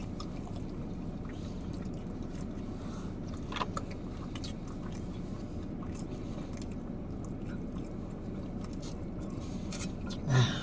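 People chewing sandwiches with soft mouth clicks and smacks over a steady low hum inside a car; a short vocal sound near the end.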